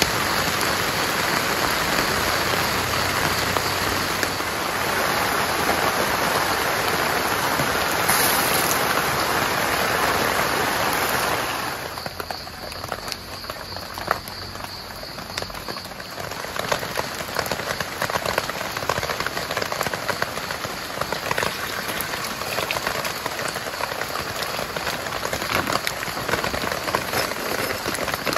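Heavy rain falling steadily, easing off suddenly about twelve seconds in, after which separate drops tick more distinctly over a lighter wash of rain.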